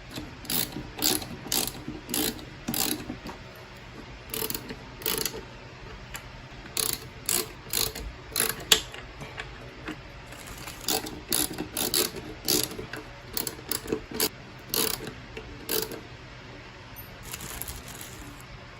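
Ratcheting hand tool clicking in short bursts, with brief pauses between them, as screws are driven in.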